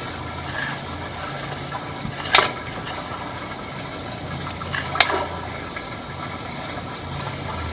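A steady low mechanical hum, like an engine idling, with two sharp clicks about two and a half seconds apart.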